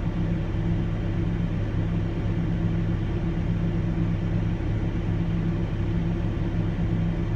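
Steady low hum of a running vehicle engine, even throughout.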